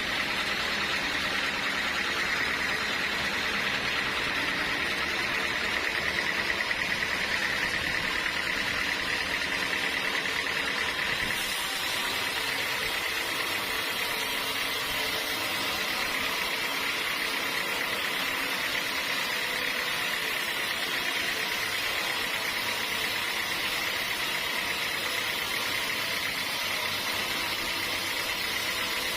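Sawmill saw machinery running steadily while sawing teak, a constant mechanical whine with a slight change in tone about a third of the way through.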